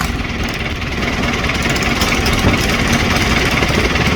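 Small boat's engine running steadily at close range, a loud, even mechanical beat with rapid firing pulses and no change in speed.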